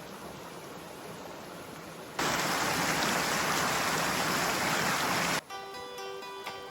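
Running creek water, fairly faint at first. About two seconds in it jumps to a much louder rush of water for about three seconds, then cuts off suddenly, and background music starts.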